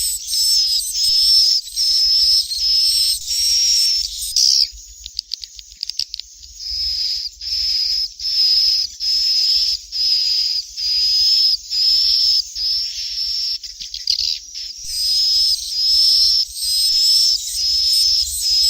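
Recorded swiftlet chick calls: a steady train of short, high chirps, about two a second, broken a few seconds in by a brief run of rapid clicking before the chirping resumes. This is a swiftlet-house lure call, played to draw swiftlets in to roost.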